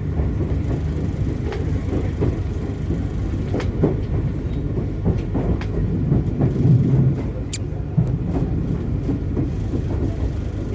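Argo Sindoro passenger train running along the track: a steady low rumble with scattered, irregular clicks and knocks from the wheels and the old coach's running gear.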